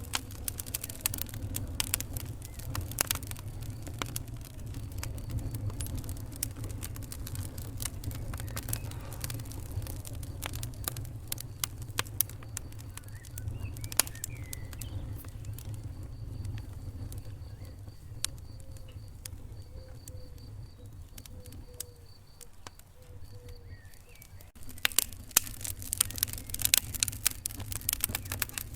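Wood fire crackling: frequent sharp pops and snaps over a low rumble. The crackling thins out a little after twenty seconds, then comes back denser and louder near the end.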